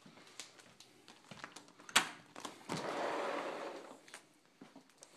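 Footsteps and small clicks, a sharp latch-like knock about two seconds in, then a patio sliding door rolling along its track for about a second and a half.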